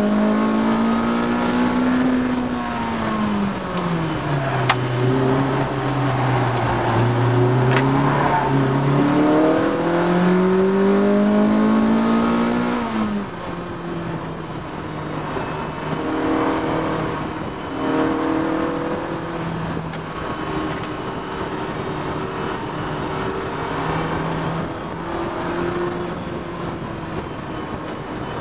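Honda VTEC four-cylinder engine of a Lotus Elise S1 at track pace, heard from inside the car. The revs fall steeply about three seconds in as the car slows, hold low for a few seconds, then climb hard under acceleration. About thirteen seconds in they drop again and the engine runs quieter and lower, on and off the throttle.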